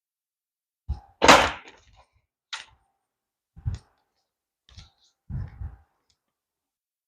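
Hand tools and metal parts being handled at a car's hub: a string of separate knocks and clunks, the loudest about a second in.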